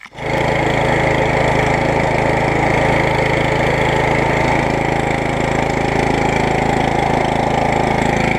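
MTD lawn tractor engine running at a steady speed, coming in suddenly right at the start with no cranking heard.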